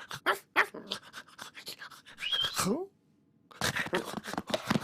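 Cartoon cat sound effects: a run of quick scratching, clicking noises, a short falling squeak about two and a half seconds in, a brief pause, then a denser flurry of scratching.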